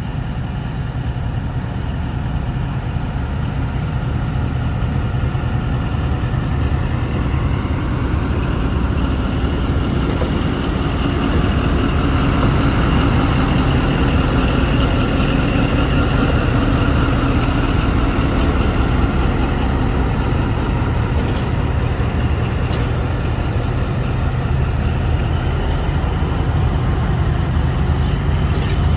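Pakistan Railways ZCU-20 diesel-electric locomotive (No. 6420) pulling a passenger train out of a station: a loud, steady low engine drone that grows louder over the first ten seconds or so and then holds.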